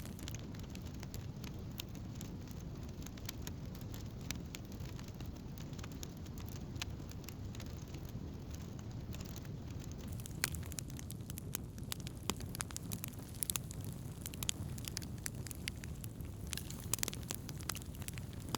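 Wood campfire burning with a steady low rumble of flame and a constant scatter of sharp crackles and pops, which grow busier and louder about halfway through.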